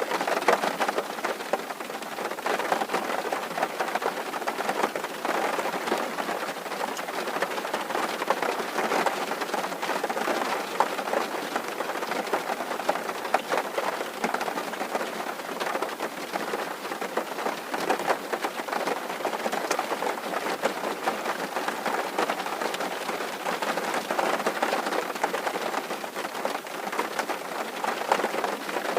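Rain falling steadily on a tin roof: a dense, even patter of drops on the metal sheeting.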